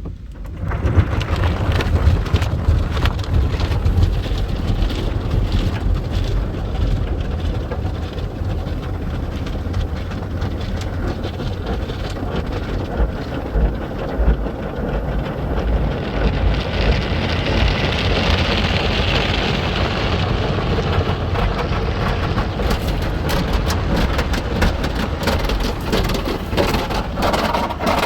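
Belanger FreeStyler automatic car wash spraying water onto a car, a dense hiss and drumming like heavy rain over a low rumble. It starts abruptly, and the hiss grows brighter for several seconds past the middle.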